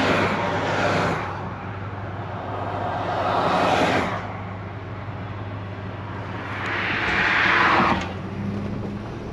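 1968 Plymouth Fury's 383 V8 cruising, heard from inside the cabin as a steady low drone with road noise. Three louder rushes of noise swell and fade: one about a second in, one around four seconds and one near eight seconds.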